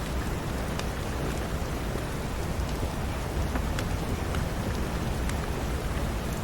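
Steady rain with a deep low rumble underneath, broken by a few scattered sharp pops and crackles of a wood fire in a fireplace.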